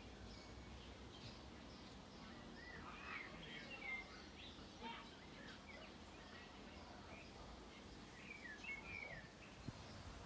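Faint bird chirps, short rising and falling notes in two loose clusters, over low steady outdoor background noise, with one soft click near the end.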